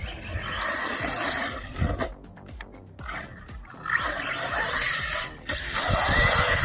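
Brushless motor and 4x4 drivetrain of an Arrma Vorteks 3S RC stadium truck running hard over dirt and grass, a whine with gravelly tyre noise. The sound cuts out twice, once for about a second near the middle and once briefly later, as the throttle comes off.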